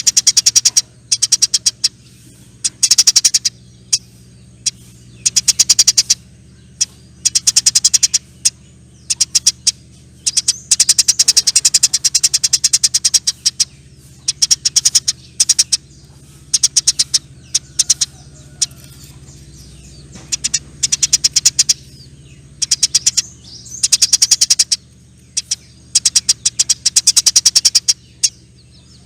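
Eurasian tree sparrow (burung gereja) giving long, rapid chattering trills in bursts of one to two seconds, one after another with short pauses between. A faint steady low hum runs underneath.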